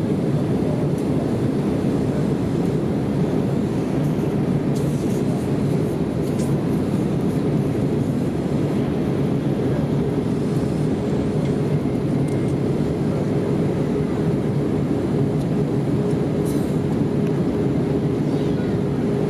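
Steady cabin noise inside an Airbus A320 in flight: an even, deep rumble of engines and airflow, with a faint steady hum that grows a little stronger in the second half.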